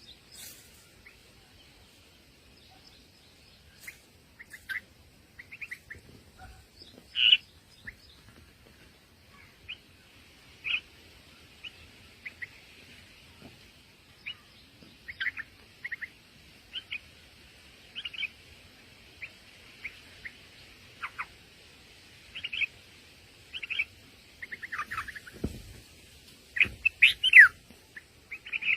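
Small birds chirping: short, high chirps about once a second, with a quicker, louder flurry near the end.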